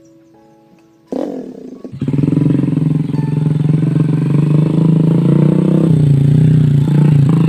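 Small motorcycle engine running at steady high revs, cutting in abruptly about a second in, with a brief drop in pitch near six seconds.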